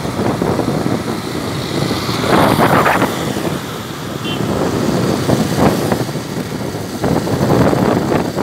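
Motorcycle being ridden along a road, its engine running under loud, gusty wind noise on the microphone that swells and eases every second or two.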